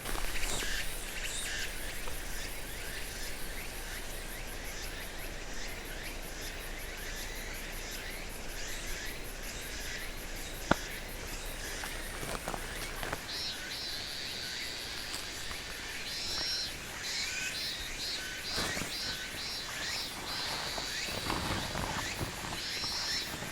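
Insects chirping in a fast, pulsing trill that starts about halfway through, over a steady outdoor background with light rustling and one sharp click.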